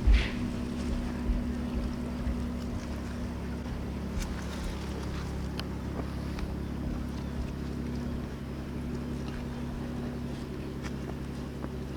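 An engine running steadily with a low, even hum, and wind gusting on the microphone near the start.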